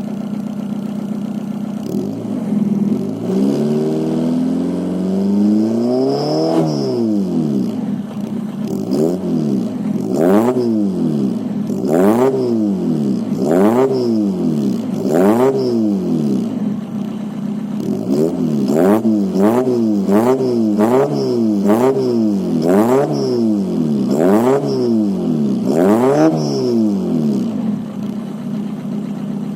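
Peugeot 106's 1.5-litre diesel engine, with a modified exhaust, intake and injection pump, idling and then being revved: one long rev about two seconds in, then a quick series of short blips of the throttle, roughly one a second, before it settles back to idle near the end.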